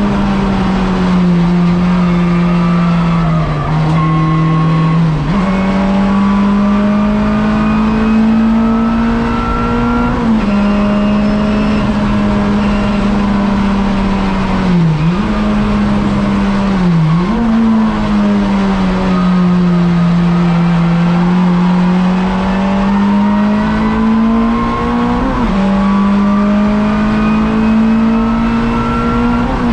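Race-prepared hatchback engine heard from inside the stripped cabin, held at high revs while racing, its note sliding slowly up and down with several sudden gear changes and two brief dips in revs near the middle.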